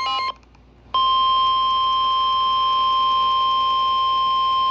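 NOAA Weather Radio alert signal: a burst of electronic data tones cuts off, and after a brief gap the steady warning alarm tone sounds, one loud unbroken high beep. It is the signal that a warning message follows.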